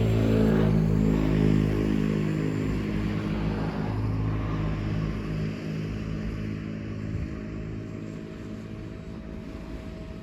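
Radio-controlled X8 model glider's motor and propeller buzzing in flight, loudest in the first couple of seconds, then fading steadily as the plane draws away.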